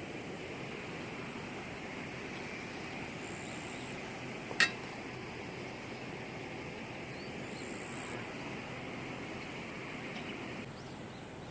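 Steady outdoor background hiss with a faint higher whir that stops near the end, and one sharp click a little after four seconds in.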